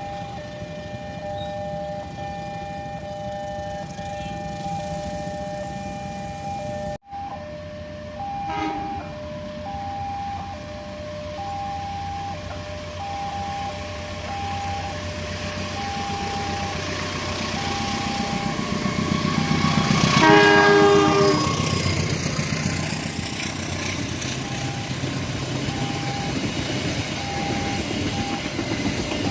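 Level-crossing warning alarm sounding an evenly pulsing tone while a train approaches, its rumble growing louder. The train's horn blows briefly about twenty seconds in, the loudest moment, as the train reaches the crossing.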